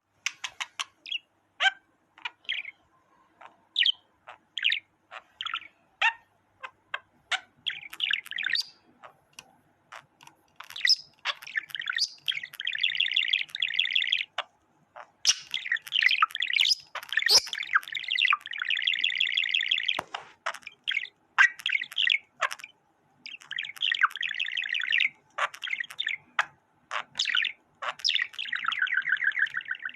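A small bird calling: many short, sharp chirps broken up by several fast trilled passages of rapidly repeated notes, each lasting a second or two.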